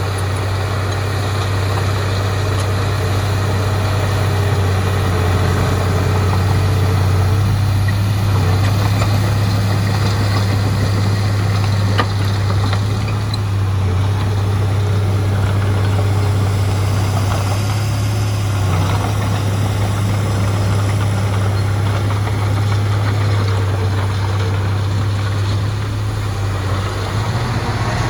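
Heavy diesel engine of earthmoving machinery running steadily at a constant low hum, with a faint higher whine that comes and goes.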